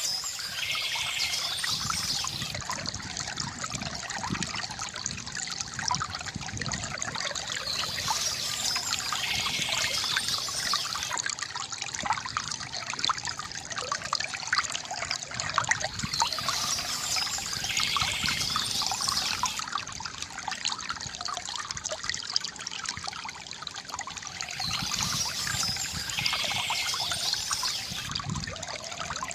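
Water from a bamboo fountain trickling and pouring steadily, with a brief high sound coming back about every eight seconds.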